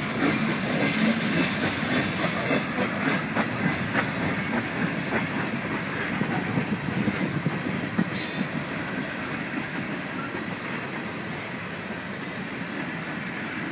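Freight train's boxcars and tank cars rolling past, wheels clacking over the rail joints. About eight seconds in there is a brief high-pitched wheel squeal.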